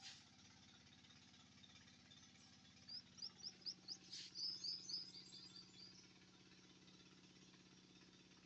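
A small bird's rapid run of short, high chirps, starting about two and a half seconds in and lasting some three seconds, over a low steady hum. A sharp click comes at the start and another in the middle of the chirping; otherwise near silence.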